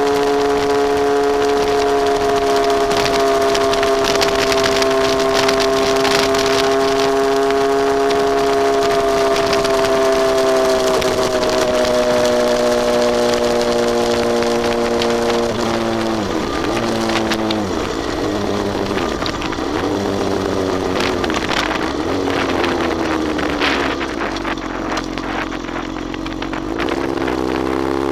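Honda CBR954RR's inline-four engine running at a steady cruise, heard from the pillion seat with wind rushing past. About halfway through the engine note drops and wavers as the bike slows, then settles at a lower pitch.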